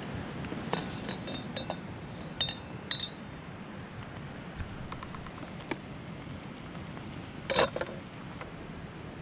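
Cookware and utensils clinking: a few light clinks about one, two and a half and three seconds in, and a louder knock near the end, over a steady hiss.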